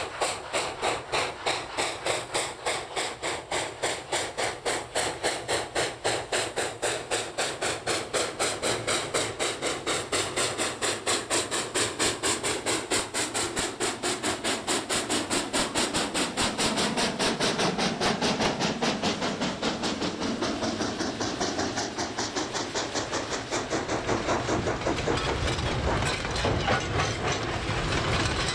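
Steam locomotive working hard, its exhaust chuffing in an even rhythm that quickens as it picks up speed.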